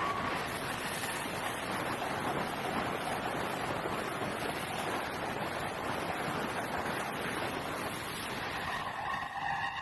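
Heavy rain falling, a steady, dense hiss that starts abruptly and holds level throughout.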